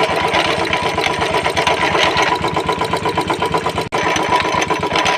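Royal Enfield Classic 350's single-cylinder engine running steadily, with a growling 'ghar ghar' noise from the clutch side. The mechanic traces it to a worn-out self-starter pinion and a broken starter bearing.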